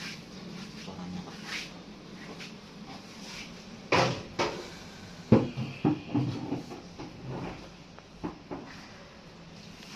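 Knocks and clunks of parts of a front-loading washing machine being handled during its teardown: a few sharp knocks bunched together about four to six seconds in, with lighter taps around them.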